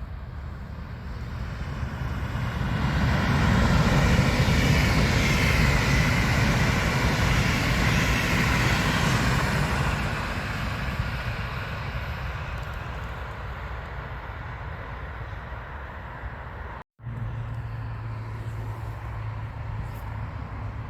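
A train passing on the line, rushing noise building over the first few seconds, staying loud for several seconds, then fading away. Near the end the sound cuts out for a moment and a steady low hum follows.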